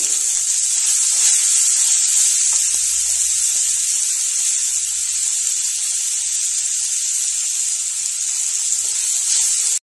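Grated onion sizzling in hot ghee in a pan, a loud steady hiss as the onion's water cooks off.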